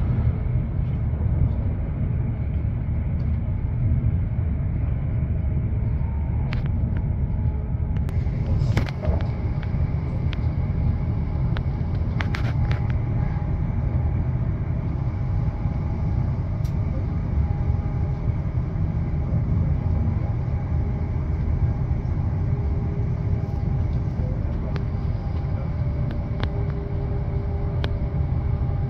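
Passenger train running at speed, heard from inside the carriage: a steady low rumble with a faint whine, and a few sharp clicks between about six and thirteen seconds in.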